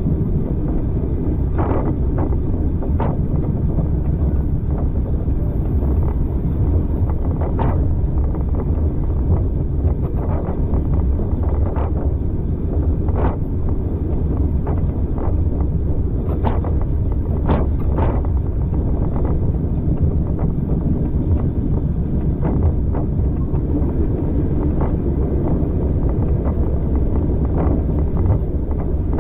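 A moving train heard from a passenger carriage: a steady low rumble of running noise with irregular sharp clicks from the wheels and carriage, and wind buffeting the microphone.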